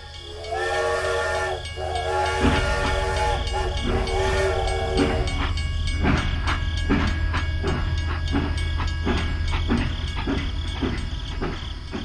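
Steam-train whistle sounding in three blasts, followed by steady chuffing at about two beats a second over a low hum.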